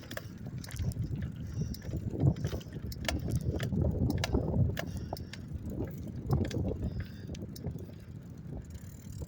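A bicycle being ridden: a steady low rumble of tyres and riding noise, with many short rattling clicks scattered throughout.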